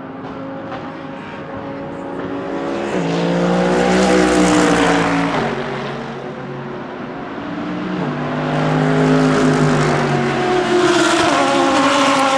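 GT3 race car engines at racing speed, swelling loud twice as cars go past, about four seconds in and again from about nine seconds to the end. The engine note steps and bends in pitch as the cars shift and accelerate.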